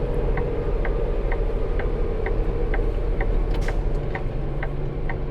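A semi truck's turn-signal indicator clicking evenly, about twice a second, inside the cab over the steady drone of the truck's engine.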